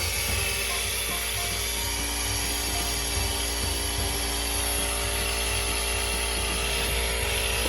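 Compressed air hissing steadily as it blows through water lines being cleared for winter, with a steady machine hum beneath.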